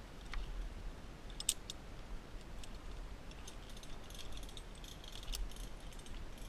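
Scattered light clicks and small rattles, several close together about a second in and a denser run of them between about three and a half and five and a half seconds in, over a steady low rumble.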